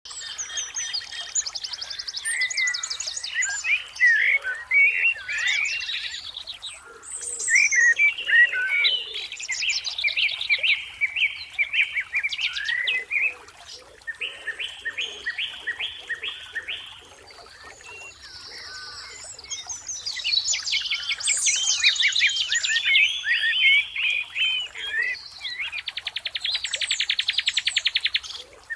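Songbirds singing and chirping, with varied phrases overlapping, quick runs of repeated notes and rapid trills; a long fast trill near the end.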